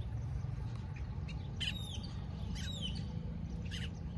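Birds calling: a few short squawks whose pitch drops quickly, over a steady low rumble.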